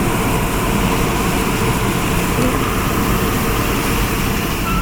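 Tunnel car wash foaming and spraying the car, heard from inside it: a loud, steady rushing hiss over a low rumble.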